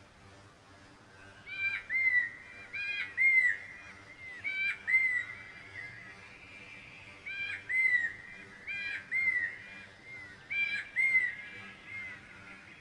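A bird calling with a repeated whistled phrase, about six times: each phrase is a sharp note followed by a short arching whistle.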